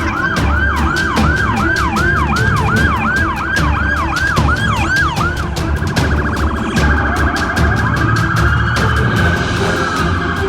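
Siren sound effect: a fast repeating falling yelp, about three sweeps a second, changes a little past halfway to a steadier held tone that slowly slides down. It plays over background music with a steady beat.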